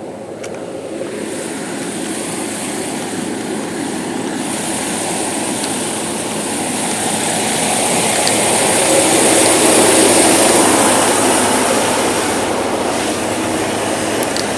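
Semi-truck under way: engine and road noise build steadily over several seconds, then ease off slightly near the end.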